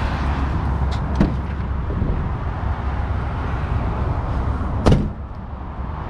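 Motor vehicle engine running steadily with a low rumble, with a sharp knock about a second in and a louder one near five seconds.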